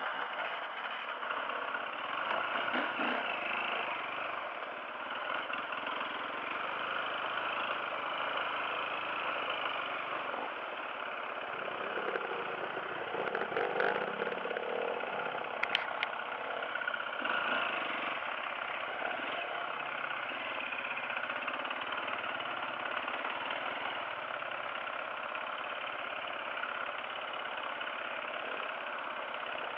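Dirt bike engine running while riding a trail, its sound swelling and easing a little, with one brief sharp click about halfway through.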